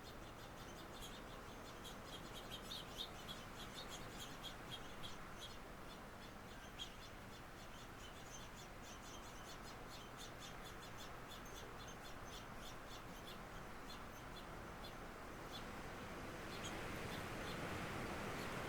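Small birds chirping in quick, repeated high notes over a faint steady rush of wind and rain. About sixteen seconds in the chirping stops as a gust of wind rises and grows louder.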